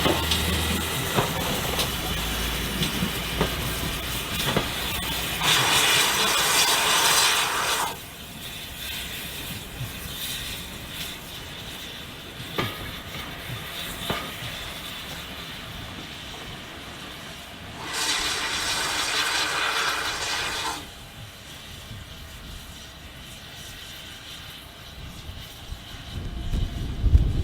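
Steam locomotive with two bursts of steam hiss, each about three seconds long, the first about five seconds in and the second about eighteen seconds in, over the steady running noise of the train.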